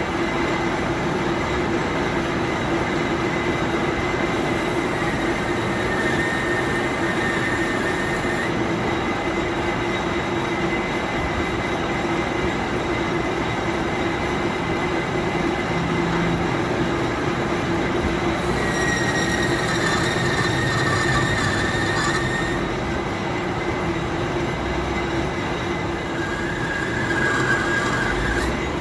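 Metalworking machine running steadily with a constant hum, and a high metal-on-metal squeal that comes and goes three times.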